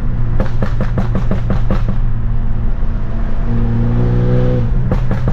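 Straight-piped BMW F30 328i's turbocharged four-cylinder engine and exhaust running hard, with a quick string of pops and crackles in the first couple of seconds and again near the end. A steady drone runs between them.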